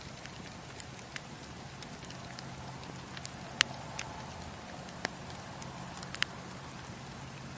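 Campfire crackling: a steady low hiss and rumble of burning wood with scattered sharp pops and snaps, the loudest about three and a half seconds in and two more close together near six seconds.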